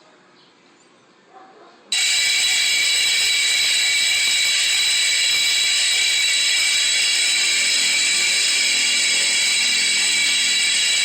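AEST bicycle freewheel hub ratcheting as the wheel spins freely. The sound starts abruptly about two seconds in and then holds steady and loud.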